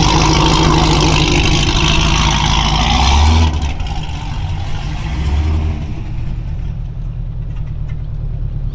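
Car on the move: engine running with road and wind noise, loud for about the first three and a half seconds, then dropping suddenly to a quieter low engine hum.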